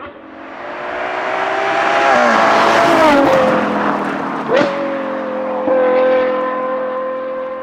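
Ferrari Purosangue's V12 with a Novitec race exhaust accelerating, the note climbing and getting louder, with quick upshifts about three seconds in and again about a second and a half later. It then holds a steady note that fades a little.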